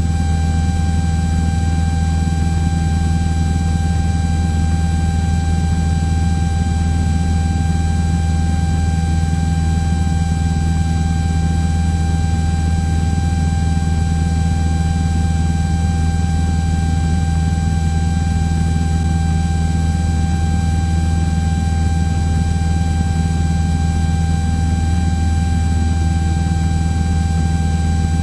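Cessna 172's engine and propeller giving a steady, unchanging cruise drone in the cockpit, with a thin high whine held over it.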